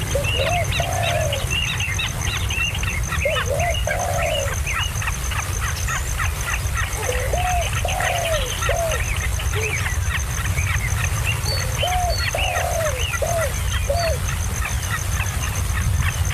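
Birds chirping: a dense run of rapid high chirps throughout, with a lower, arching call coming in short groups of three or four about every four seconds, over a steady low rumble.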